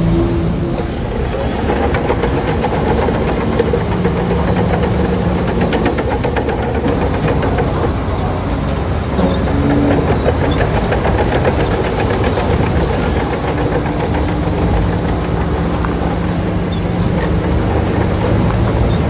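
Shantui bulldozer's diesel engine running hard under load, with a rapid, even clatter through the middle stretch.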